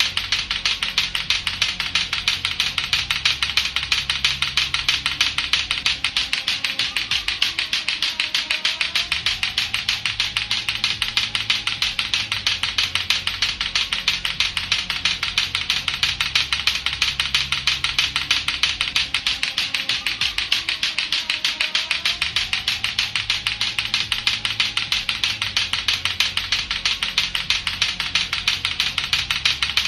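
Latto-latto clacker toy, two hard plastic balls on a string knocking together in a fast, even, unbroken stream of clacks.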